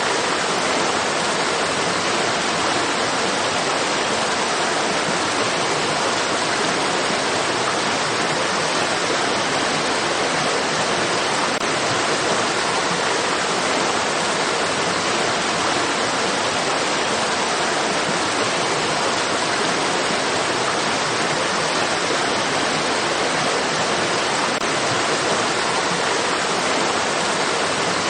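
Flowing stream water rushing steadily, an even hiss with no changes or splashes.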